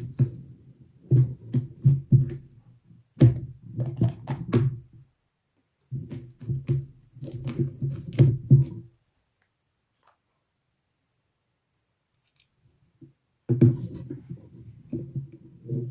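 Slime being squeezed and poked by hand, giving bursts of quick clicks and pops with short pauses between them. A silent stretch of about four seconds falls past the middle.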